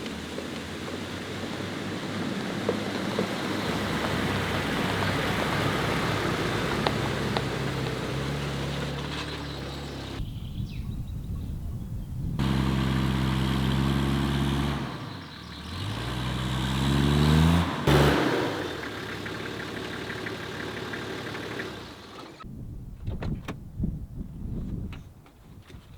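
Toyota Land Cruiser 80-series running on the road with steady road and wind noise; about halfway through the engine revs up, rising in pitch for a few seconds. Near the end scattered clicks and knocks.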